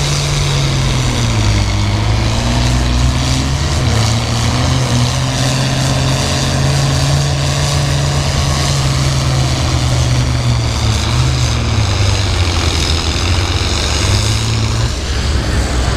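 International Harvester 966 pulling tractor's engine running hard at full throttle under load through a pull. The engine note holds steady, dips in pitch briefly a couple of times and drops near the end.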